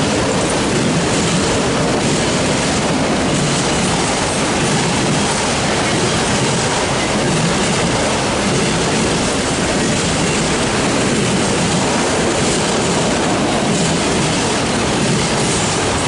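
Autorack freight cars rolling past close by: a loud, steady noise of steel wheels running on the rails.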